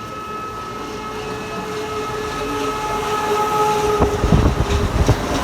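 Mexico City Metro train pulling in: a steady electric whine of several tones grows louder, then stops about four seconds in, giving way to a series of heavy low thumps and rumbling.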